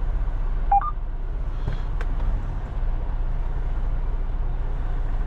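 Semi-truck engine running, a steady low drone heard inside the cab. A short two-note electronic beep sounds just under a second in, followed by a couple of faint clicks.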